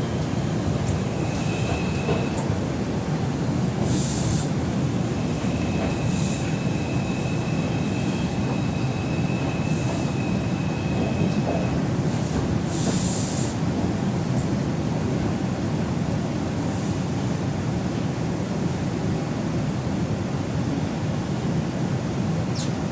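Steady rumble of an R142 subway car running on the track, heard from inside the car. A thin high wheel squeal comes in briefly about two seconds in and again for several seconds from about six seconds, with a few short hisses.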